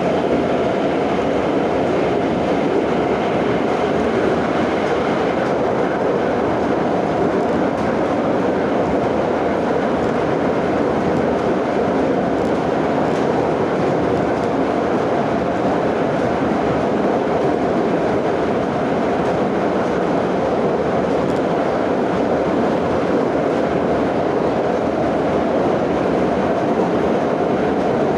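Moscow metro 81-717/714 ('Nomernoy') train running at speed between stations, heard from aboard: a steady, even rumble of wheels on rail and tunnel noise.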